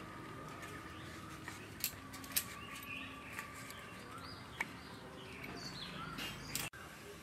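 Birds chirping in short calls, with a few sharp taps or knocks in between. The sound drops out suddenly for an instant near the end.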